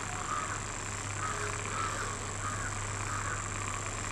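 Short animal calls repeated about twice a second over a steady low hum.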